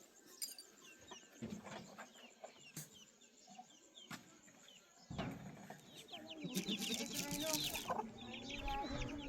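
Chickens calling: faint scattered cheeps at first, then from about five seconds in louder clucking with dense, rapid cheeping that builds toward the end.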